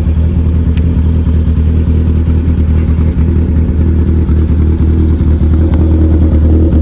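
Supercharged 2.2-litre four-cylinder engine of an engine-swapped Vauxhall VX220 running, a loud, steady low drone that flutters throughout.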